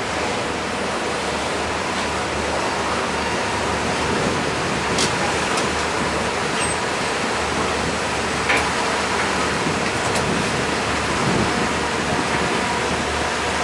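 Passenger train running along the track: a steady rush of wind and running noise heard from an open window of the moving car, with a few sharp clacks, the loudest about eight and a half seconds in.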